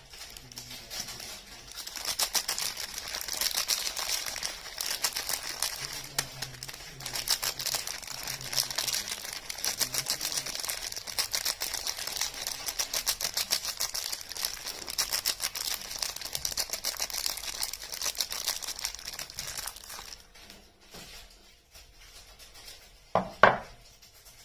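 Soap packaging being handled and unwrapped: dense, rapid crinkling and crackling with some tearing, which thins out near the end. One short, loud pitched squeak comes just before the end.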